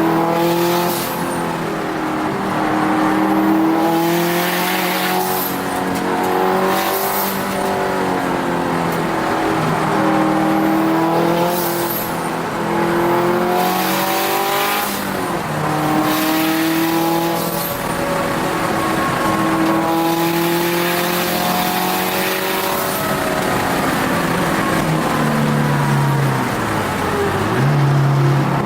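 Turbocharged Subaru WRX STi flat-four engine heard from inside the car under hard track driving, its revs repeatedly climbing and dropping through gear changes and corners. Short hissing bursts come through several times.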